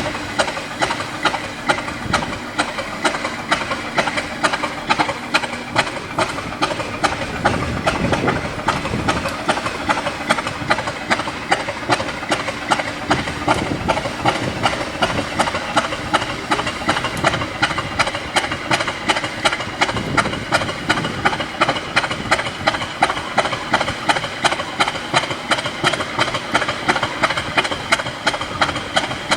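Class 50 diesel locomotive's English Electric 16-cylinder engine running at idle with a steady, even clattering beat and an exhaust hiss.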